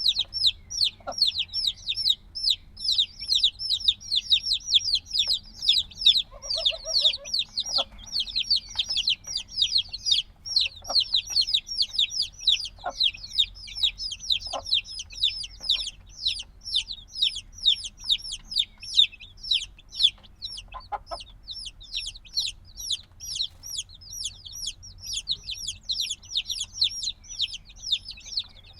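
A brood of chicks a few days old peeping without pause: many short, high chirps, each falling in pitch, overlapping several times a second. A few fainter, lower calls and soft clicks sound under the chirping about six seconds in and now and then after.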